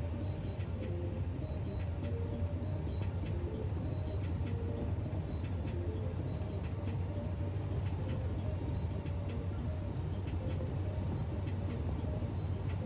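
A car driving along a road: a steady low rumble of engine and tyres, with faint short tones coming and going on top.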